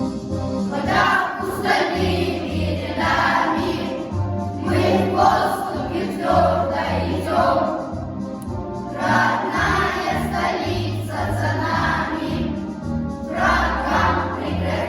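A group of young voices singing a song together in phrases of a few seconds, over an instrumental backing track with a steady bass line.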